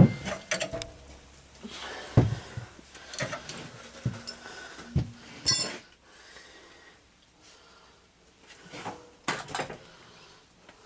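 Scattered metal clinks and knocks of hand tools and parts being handled, with no power tool running. The knocks are most frequent in the first six seconds, with two more near the end.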